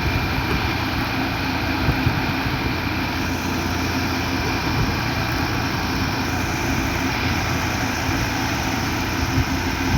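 Concrete mixer truck's diesel engine running steadily while it pours concrete.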